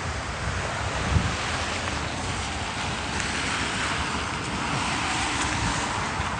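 Rushing tyre noise of street traffic passing, swelling toward the middle and latter part, over a low wind rumble on the microphone.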